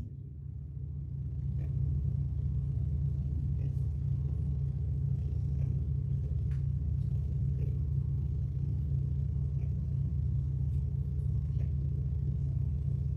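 A steady low rumble that swells over the first couple of seconds, with a few faint clicks on top.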